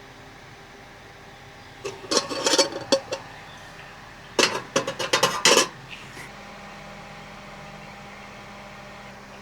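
Cookware and utensils clattering: two short bursts of clinks and knocks, about two seconds in and again about four and a half seconds in, over a steady low hum.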